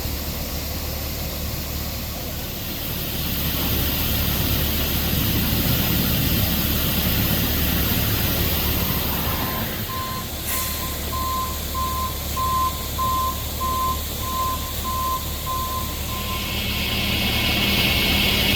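Heavy vehicle's diesel engine idling with a steady low rumble. About ten seconds in, a reversing alarm starts beeping at a steady pitch, about twice a second for roughly six seconds, then stops.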